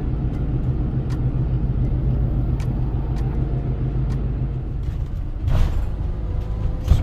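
Renault Master camper van driving on the road: a steady engine drone and road noise, heard from inside the cabin, with a brief louder rush about five and a half seconds in.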